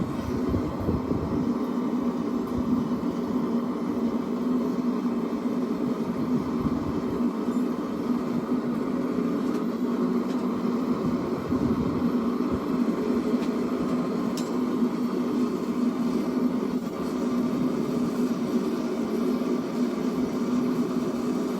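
A steady, even mechanical roar with no hammer blows, from shop equipment running throughout.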